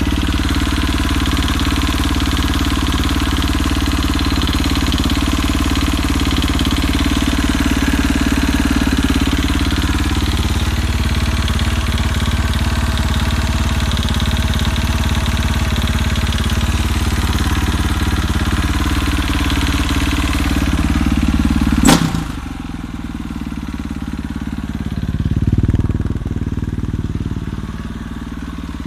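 KTM RFS four-stroke single-cylinder engine idling with a knocking noise. About three-quarters of the way through comes one sharp click, after which the engine sounds quieter, with a brief swell a few seconds later.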